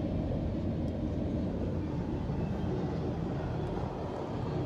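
Steady low rumble of a vehicle running, with no distinct knocks or horn.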